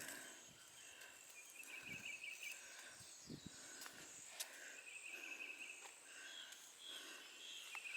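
Faint insects trilling in short bursts of rapid pulses that repeat every couple of seconds, over quiet outdoor ambience with a few faint clicks and rustles.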